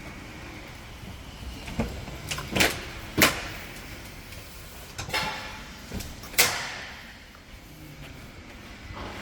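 About half a dozen sharp knocks and clanks at uneven intervals, the loudest about three and six seconds in, from repair work on a truck's cargo body.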